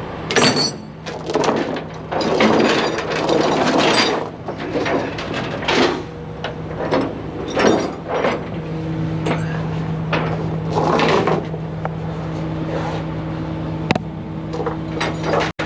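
Tie-down chains clanking and rattling irregularly as they are handled and pulled tight, over the steady hum of an idling truck engine.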